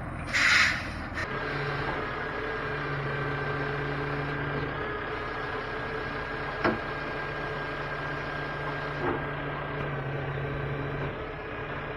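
Heavy truck engine idling steadily, with a short, loud hiss of air about half a second in and a couple of light knocks later on.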